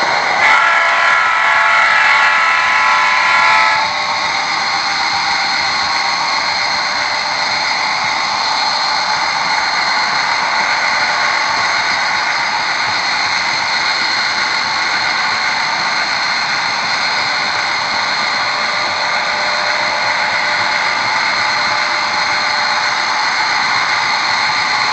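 HO scale model diesel locomotives running on the layout: a steady whine with several steady tones. A louder chord of tones sounds over it for the first few seconds, then stops.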